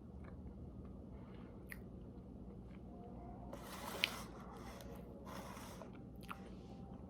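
A person quietly taking a bite of frosted almond cake and chewing: a few soft clicks and two short scraping bursts midway, the first with a sharp click.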